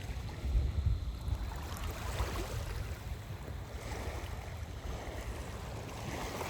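Wind buffeting the microphone over the wash of small waves on a shoreline, with a swell in the water sound a couple of seconds in.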